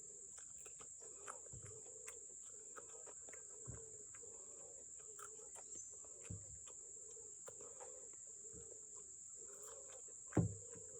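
Steady high-pitched insect buzz with a faint wavering lower call repeating under it, broken by a few soft knocks, the loudest near the end.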